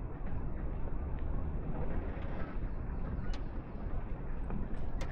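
Steady outdoor background noise with a low rumble, broken by a few faint clicks.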